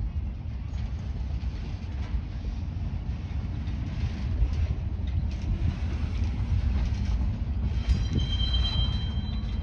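Low, steady rumble of a nearby diesel freight train, the CSX local with its EMD GP38 locomotives, idling or moving slowly out of sight of the crossing. A brief thin high tone sounds about eight seconds in.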